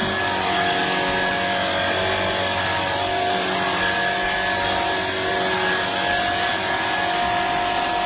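Shark cordless stick vacuum running steadily: a high motor whine over an even rush of air.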